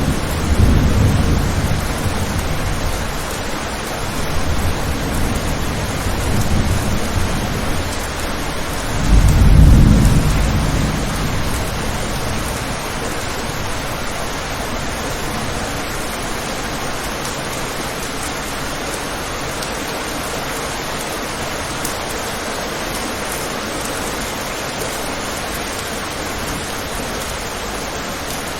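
Steady heavy rain on a window, with rolls of thunder rumbling low through the first ten seconds or so; the loudest roll comes about nine seconds in and dies away, leaving the even hiss of rain.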